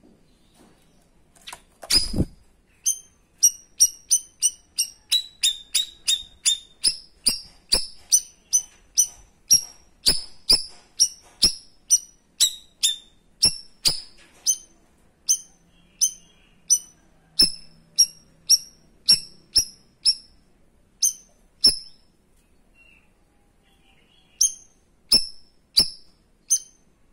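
Cucak rawis singing its 'tembakan': a long run of short, sharp, high calls, about one and a half a second, starting with a thump and pausing briefly near the end before starting again.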